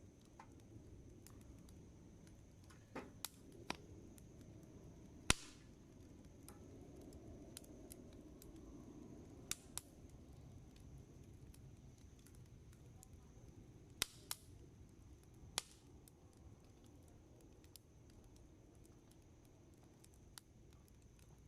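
Wood campfire crackling: scattered sharp pops, about ten of them, the loudest about five seconds in, over a soft low rush of burning.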